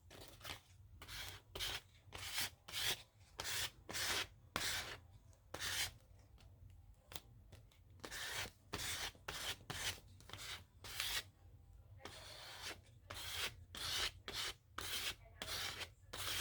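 Paper being rubbed in repeated short strokes, one or two a second, with a pause of a couple of seconds midway.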